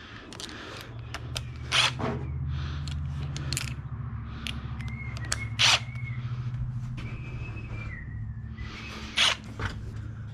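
Hand tools clinking and knocking against metal a handful of times over a steady low hum, during work to remove a turbocharger setup. A faint high squeak wavers through the middle.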